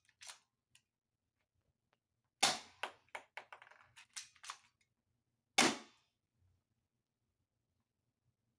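Two sharp gunshots about three seconds apart, the first followed by a rattle of lighter clicks.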